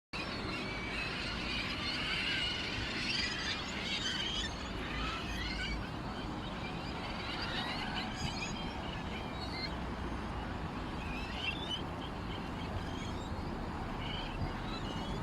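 Many small birds chirping and twittering at once, a busy overlapping chorus that is thickest in the first few seconds, over a steady low background rumble.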